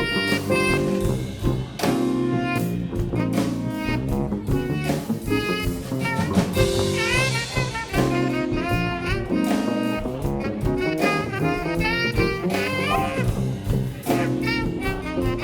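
Live band playing jazz: a melody line with sliding notes over a walking bass line and a steady drum beat.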